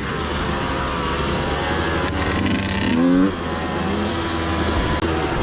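Dirt bike engine running, its revs rising a little past halfway and then dropping off sharply.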